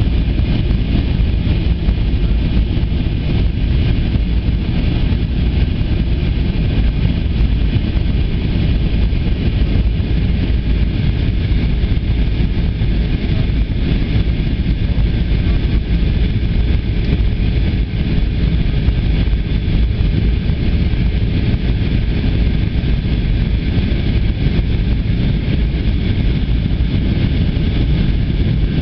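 Steady cabin noise of an Airbus A320 in flight: a constant low rumble of the jet engines and airflow with a hiss over it and a faint steady hum, unchanging throughout.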